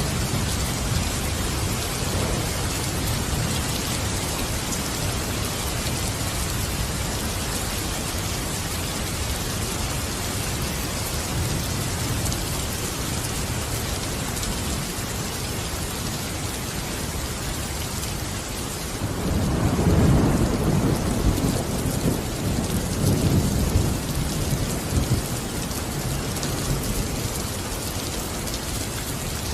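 Steady heavy rain hissing, with a low rumble of thunder rolling in about two-thirds of the way through and dying away over several seconds.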